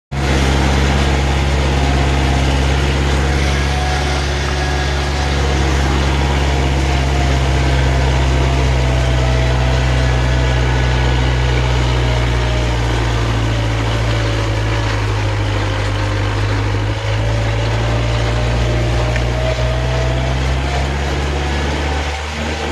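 Kubota 45 hp tractor's diesel engine running steadily under load, pulling a harrow, with a fainter whine that drifts slightly in pitch.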